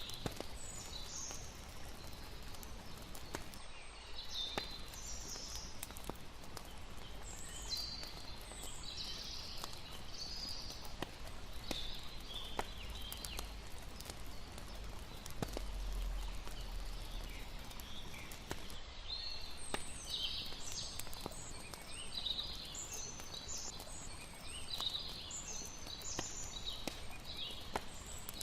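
Layered night-ambience soundscape: a campfire crackling with sharp pops, clusters of high chirping insect calls that come and go, and a steady low wash of lapping water underneath.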